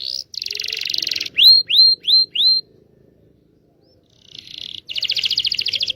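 Canary song: a fast buzzy trill, then four quick upswept whistles. After a pause of about a second and a half comes another rapid trill near the end. This is a lure song of the kind played to coax young or silent canaries into singing.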